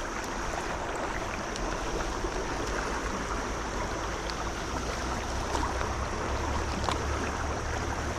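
Steady rush of flowing stream water, with a few faint ticks and a low rumble that grows stronger past the halfway point.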